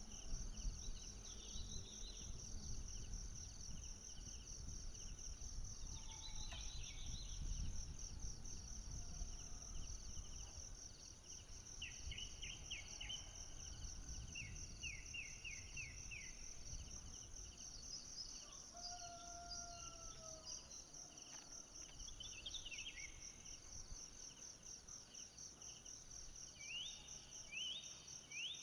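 Tropical forest ambience: insects trill steadily in a fast, even pulse, and birds call in short runs of quick chirps every few seconds. A low rumble in the first half fades out by about the middle.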